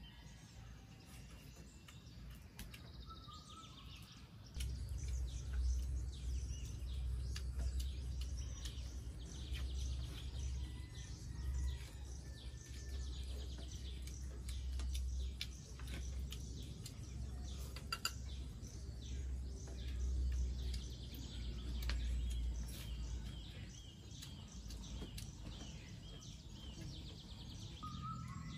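Wild birds chirping and calling in the surrounding trees, over a low rumble that comes in about four seconds in and fades after about twenty seconds, with a few light clicks.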